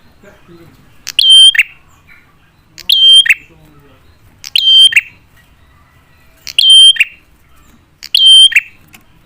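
Prinia (prenjak) call repeated five times, evenly spaced about every one and a half to two seconds. Each call is a short, loud, sharp note that drops in pitch at its end. It is a lure recording of a singing male, used to make other prinias answer.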